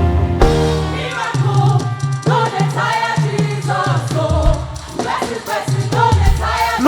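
Live gospel music: a vocal group singing in harmony over a band's bass, with the drum beat dropping out just after the start.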